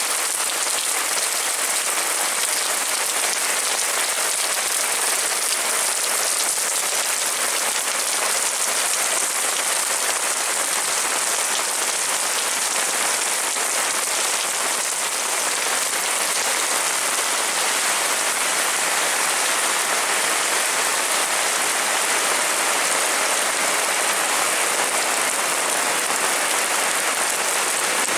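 Heavy rain falling steadily, a dense even patter of raindrops on surfaces.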